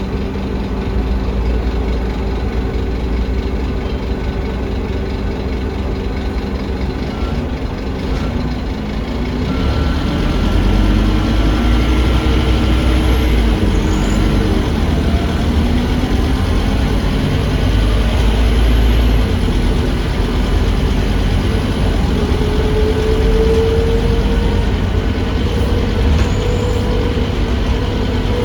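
Scania DC9 five-cylinder diesel of an articulated Scania K310UA bus, heard on board, running steadily, then from about nine seconds in getting louder with its pitch rising as the bus accelerates.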